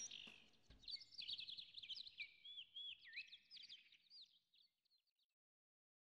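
Small birds chirping in quick, sweeping twitters that grow fainter and fade out about five seconds in.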